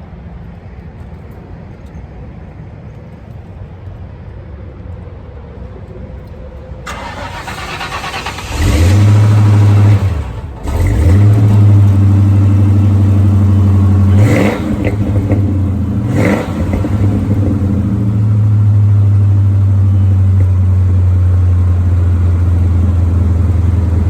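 1994 Ford Mustang GT's 5.0-litre V8 cold start: the starter cranks about seven seconds in, the engine catches a second or so later, dips briefly, and runs on. Two short revs come around the middle, then it settles into a steady idle.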